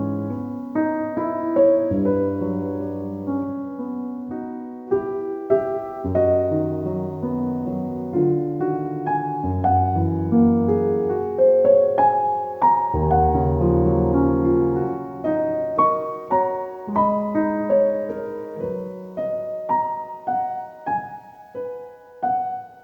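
Background music on a soft piano: gentle melodic notes that ring and fade over held low bass notes.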